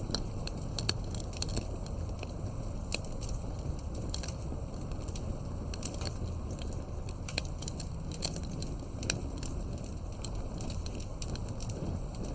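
Campfire crackling: many small, irregular pops and snaps over a steady low rumble of burning wood.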